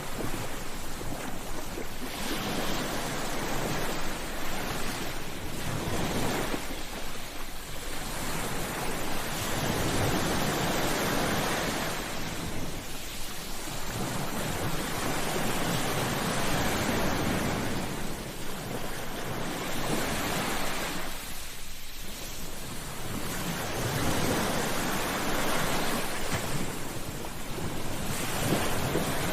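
Sea waves breaking and washing up a beach, one surge of surf swelling and ebbing every five to seven seconds.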